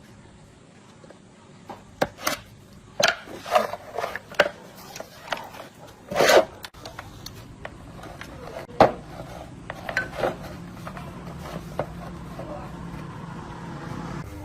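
Workshop handling of tools and parts: a series of knocks, clinks and short scrapes. A steady low hum comes in about halfway through.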